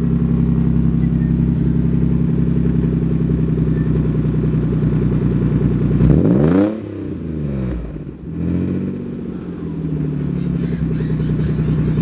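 Nissan 300ZX's naturally aspirated 3.0 L V6 idling steadily on its first start after sitting for a long time. About six seconds in it is revved once and falls back, a smaller blip follows, and it settles back to idle.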